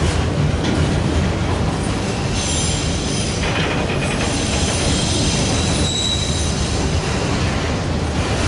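Freight train rolling past: a steady rumble and rush of wheels on rail, with thin high wheel squeals coming and going through the middle.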